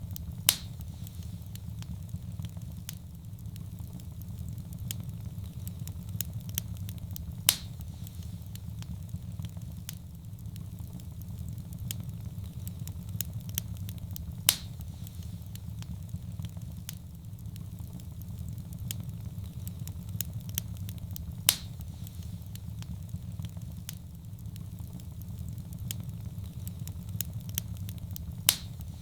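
Wood fire in a fireplace crackling over a steady low rumble, with many small ticks and a loud sharp pop about every seven seconds.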